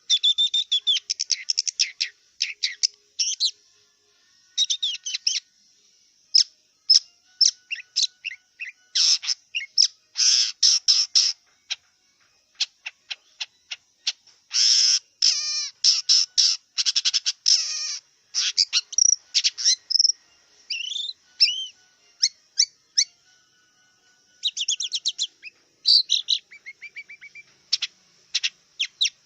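Long-tailed shrike (cendet) singing a fast, varied song of sharp chirps, rapid note runs and short warbled phrases, broken by brief pauses.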